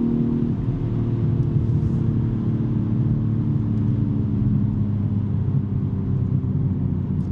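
2023 BMW M3's twin-turbo inline-six running through a non-resonated J-pipe exhaust at freeway cruise. Its drone drops to a lower pitch about half a second in, then holds steady.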